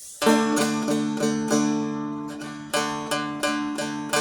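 Seagull Merlin strumstick-style dulcimer tuned D-A-D, strummed on its open strings: quick repeated strums, about three a second, all ringing the same unfretted chord, with a short pause just after two seconds in.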